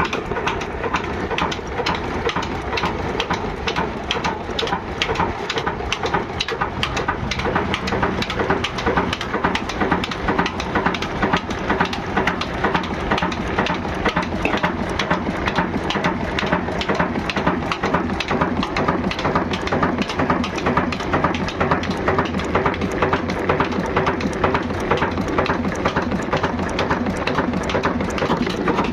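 Diesel engine running steadily at a constant speed, with a rapid, even knocking clatter.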